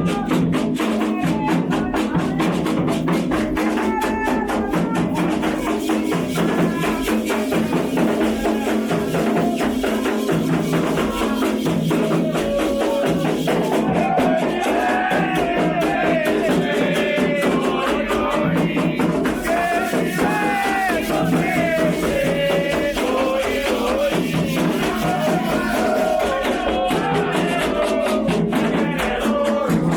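Candomblé ritual music: drums and rattles in a fast, steady rhythm, with voices singing a chant over them, the singing strongest from about the middle on.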